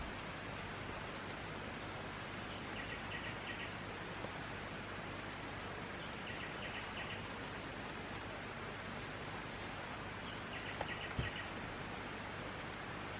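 Insect trilling steadily at a high pitch over a constant background hiss, with three short runs of lower chirps, and a faint knock about eleven seconds in.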